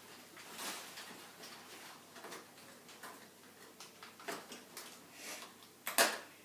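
Mouse packaging being handled and worked open: faint scattered rustles and taps, with one sharp, loud click about six seconds in.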